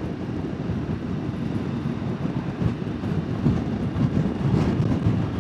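Motorbike engine running and the rush of riding wind, picked up by a wireless clip-on mic inside the rider's helmet while under way.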